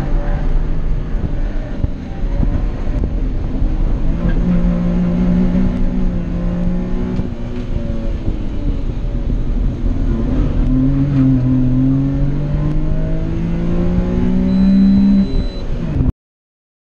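Kei car's small engine at racing load, heard from inside the cabin: its pitch holds and then rises in long pulls under acceleration and drops as it eases off near the end. The sound then cuts off suddenly.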